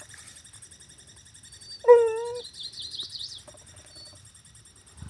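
A dog's single high whining yelp, about half a second long, followed at once by a quick run of high chirps that rise and fall. A steady high insect buzz runs underneath.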